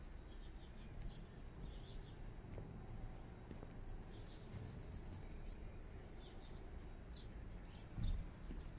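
Small birds chirping outdoors, short high notes scattered through, with one longer call about halfway, over a low steady rumble. A low thud near the end.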